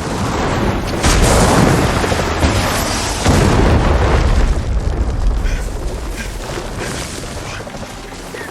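Explosion sound effects in an action film: a sudden loud blast, two more surges about one and three seconds in, then a long deep rumble slowly dying away.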